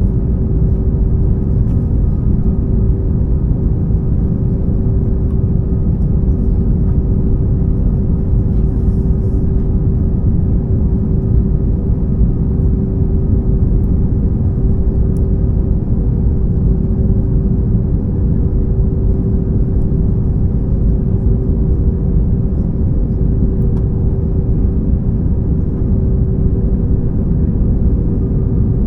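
Steady low rumble of engine and airflow noise inside the cabin of a COMAC C919 airliner, with a constant droning hum over it.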